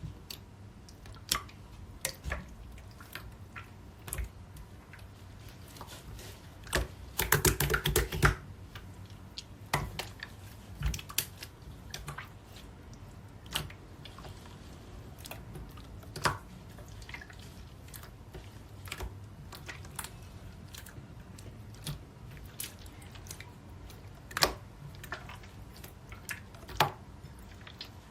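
Hands playing with a marbled slime: scattered sticky clicks and pops as it is pressed and stretched, with a dense run of loud crackling clicks about seven to eight seconds in.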